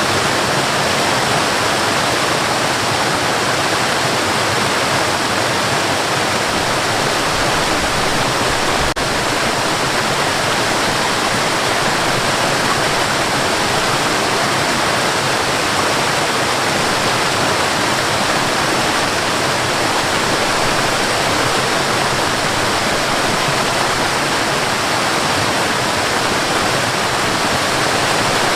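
A waterfall and river rushing steadily, a dense, even roar of falling and flowing water.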